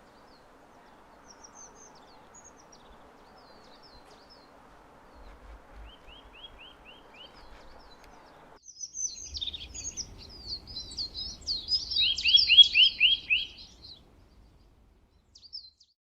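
Songbirds singing and chirping. A short series of quick rising chirps comes about six seconds in, then louder, busier song from about nine seconds in that ends in a fast run of repeated notes.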